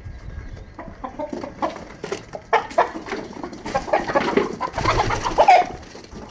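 Chickens clucking, the calls coming thickest in the second half.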